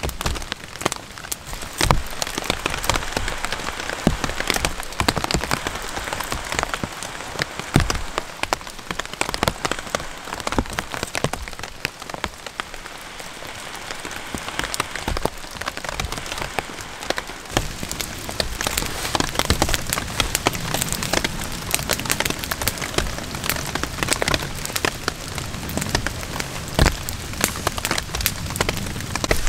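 Steady rain pattering on a tarp shelter and the forest floor, a dense stream of separate drop hits.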